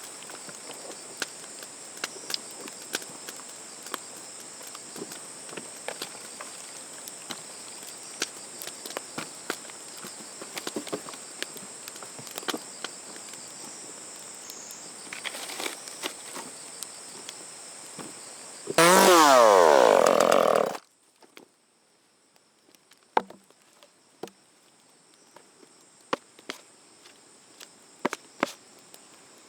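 Steady high drone of insects with many small scattered clicks. Near the end, a small engine runs loudly for about two seconds with its pitch falling, then cuts off suddenly, leaving only faint clicks.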